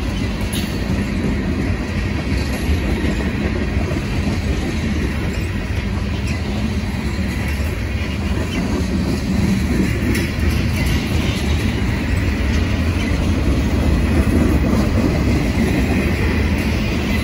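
Norfolk Southern freight train's tank cars rolling past close by: a steady rumble of steel wheels on the rails, with occasional clicks as the wheels cross rail joints.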